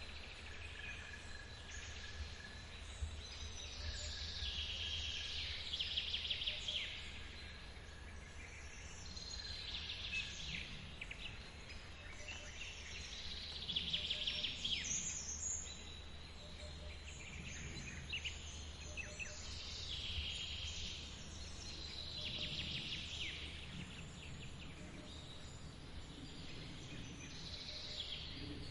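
Forest birds singing short trilled phrases every few seconds over the steady low rush of a waterfall.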